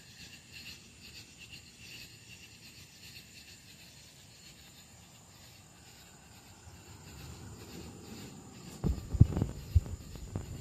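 Faint, evenly pulsing insect chirping, then a low rumble and, near the end, a few loud low knocks and thumps.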